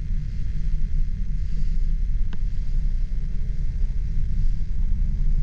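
Steady low rumble of a car driving, with one sharp click about two seconds in.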